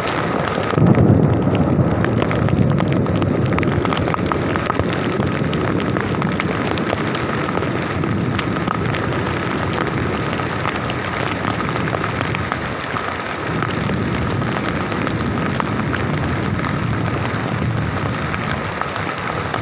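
Thunder rumbling over steady rain: a loud low rumble breaks about a second in and rolls on for several seconds, with a second, weaker swell later.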